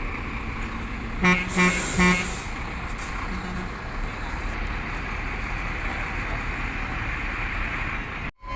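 A Howo 10-wheel dump truck running steadily, with three short horn toots about a second in and a burst of hiss alongside them. The sound drops out for a moment near the end.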